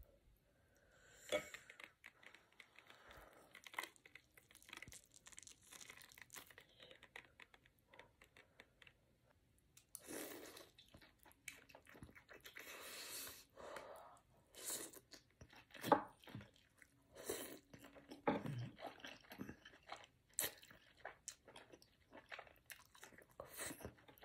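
Close-miked eating sounds of someone biting and chewing sauce-coated king crab meat: irregular wet chewing with scattered clicks and crunches.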